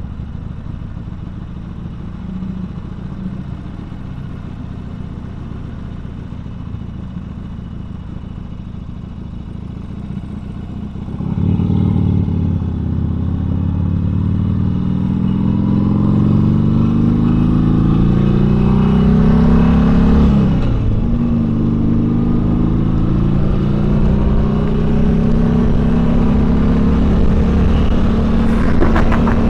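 Harley-Davidson Sportster Seventy-Two's V-twin engine under way, running at steady low revs for the first third, then accelerating with a rising pitch. Near two-thirds through the pitch breaks briefly, a gear change, and then it pulls on at higher revs.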